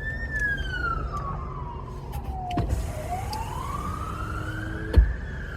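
Sheriff's patrol car siren on a slow wail. The pitch falls for about three seconds, then rises again, over a low steady rumble. A single sharp knock comes about five seconds in.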